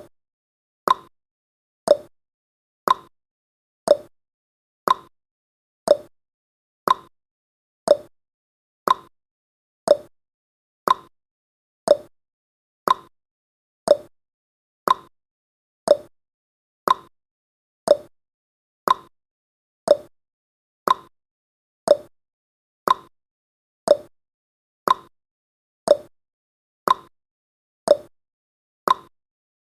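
Countdown timer's ticking sound effect: one short tick every second, evenly spaced, with silence in between.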